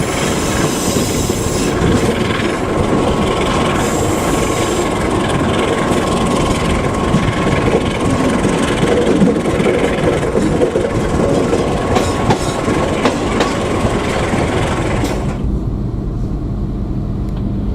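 Passenger train running on the rails: a loud, steady clatter and rumble with a thin steady whine over it. About fifteen seconds in, the high-pitched part of the noise cuts off suddenly and only a low rumble remains.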